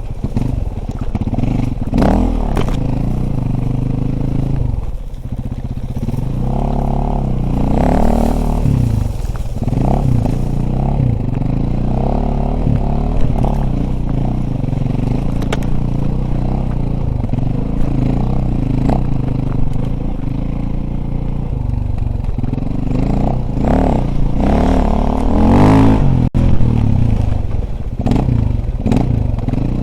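Dirt bike engine running under way, its pitch rising and falling again and again with the throttle, loudest about 25 seconds in. Occasional knocks and rattles sound over the engine.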